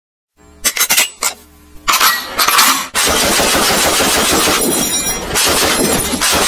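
Rapid automatic-gunfire sound of a toy assault rifle: a few sharp clicks and short bursts over the first three seconds, then loud continuous rapid fire.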